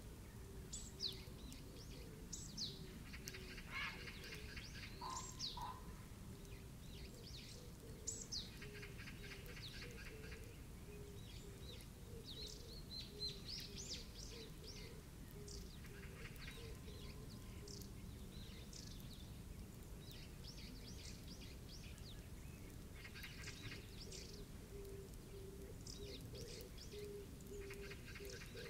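Several birds calling, with quick high chirps that sweep downward and a buzzy trill that comes back every several seconds, over a low note repeated steadily throughout.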